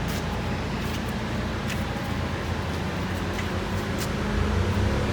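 Steady low mechanical hum, like a fan or running machinery, with a few faint ticks.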